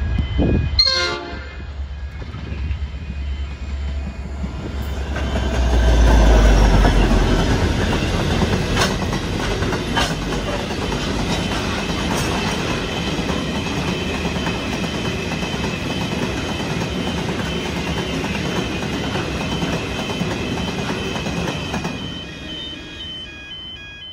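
Diesel-hauled freight train passing: a low locomotive engine rumble with a short horn-like sound about a second in, then loaded hopper wagons rolling by with steady wheel-on-rail noise and a few sharp clicks over rail joints.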